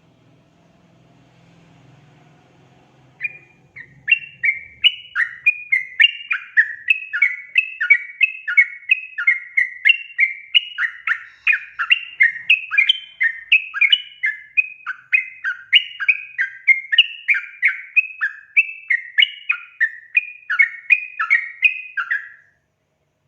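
Yellow-vented bulbul (trucukan) singing its fast, bubbling chatter: a rapid run of short warbled notes, about three a second. It starts about three seconds in after a faint hum and stops abruptly near the end.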